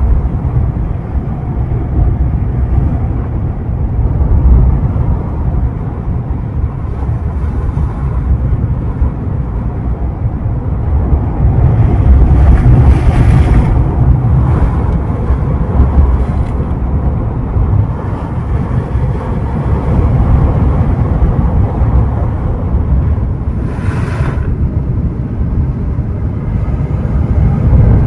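Ocean waves washing ashore in a continuous noisy surge, with two louder breaking waves, one about halfway through and one near the end. Wind buffets the microphone, adding a heavy low rumble.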